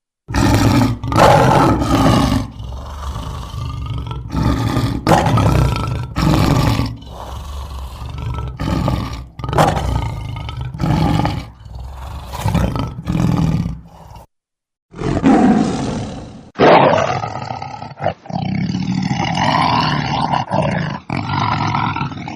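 Lion roaring: a long series of loud roars in quick succession, then, after a brief silent break about 14 seconds in, another stretch of roaring.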